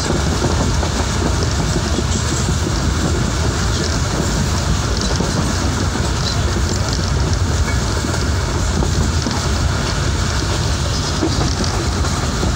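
Steady running noise of a passenger train at speed, heard from inside a carriage: wheels on the rails, loud and unbroken.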